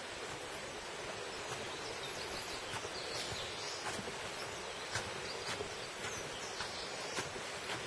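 Steady rush of a mountain valley stream, with faint bird chirps above it and a few scattered light ticks.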